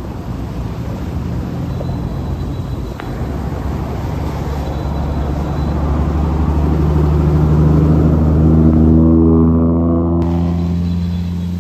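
A motor vehicle's engine approaching and passing, growing louder to a peak about eight to nine seconds in, then its pitch dropping as it moves away.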